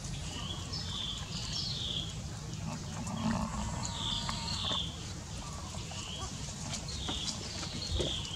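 Repeated short, high chirping bird calls every second or so over a steady low outdoor rumble, with a brief lower animal sound about three seconds in.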